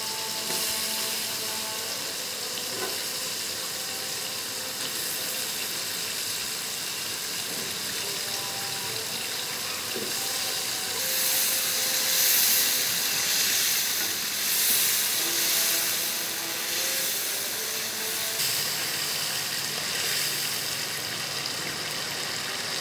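Potato chunks frying in ghee with an onion-tomato masala in a nonstick pan and being stirred with a spatula: a steady sizzle that swells louder for a few seconds midway.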